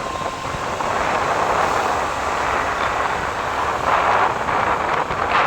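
Steady rushing noise of a moving vehicle, getting a little louder about a second in.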